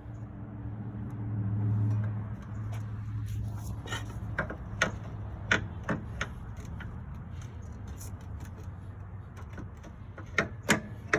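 Sharp metal clanks and clicks of tools and parts as a truck shock absorber is worked loose and pulled down, a few spread out and then a quick cluster near the end. Under them runs a steady low hum that swells about two seconds in.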